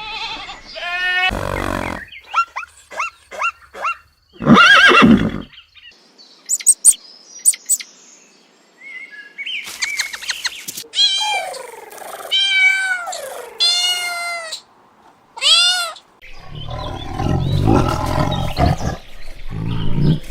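A run of different animal calls, one after another: short pitched cries and chirps, bending calls in the middle, and a long low roar near the end.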